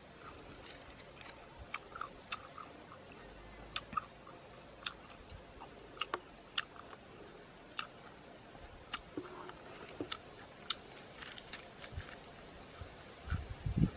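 Scattered sharp crunches and clicks of a person biting and chewing grilled snake meat and charred skin, with a cluster of heavier bites near the end.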